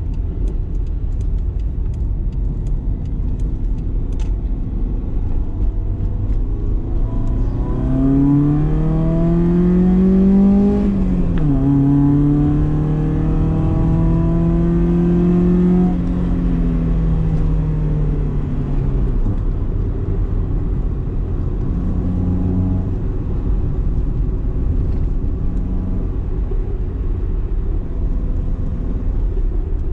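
BMW E30 318is's four-cylinder engine accelerating, with a rising note, an upshift that drops the revs, then a held pull before the revs fall away as it eases off. A steady low road rumble lies under it throughout.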